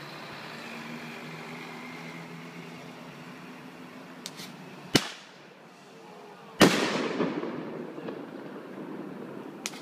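Fireworks going off: a few faint cracks, then a sharp bang about five seconds in and a louder bang a second and a half later, followed by a rumble that fades over about two seconds. Before the bangs there is a steady low hum.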